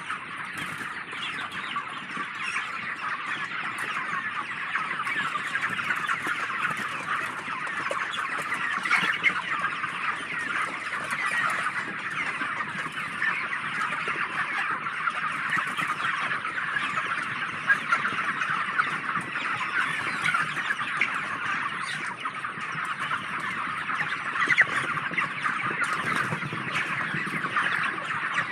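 A large flock of 38-day-old broiler chickens calling all at once, a dense, steady chatter of overlapping calls without pauses.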